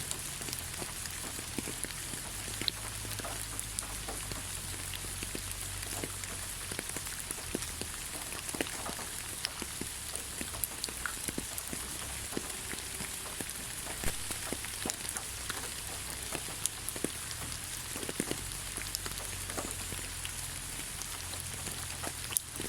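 Steady rain falling on leaves: a continuous hiss with many separate drops pattering.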